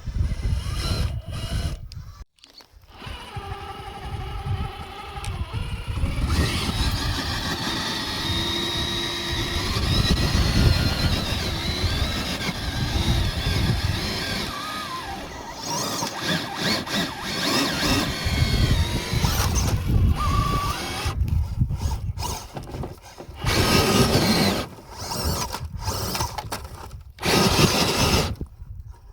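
Rlaarlo JK07PRO 1/7 RC trail truck's electric drivetrain whining as it drives, the pitch rising and falling with the throttle. The truck stops and starts several times.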